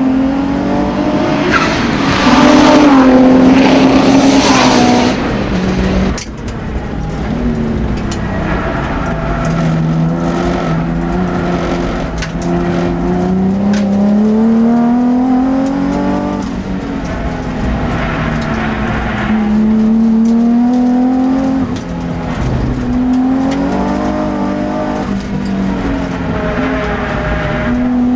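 Twin-turbo race car engine at full throttle on a circuit, its revs climbing steadily and then dropping sharply again and again with gear changes. There is a loud surge of tyre squeal and engine noise about two to five seconds in.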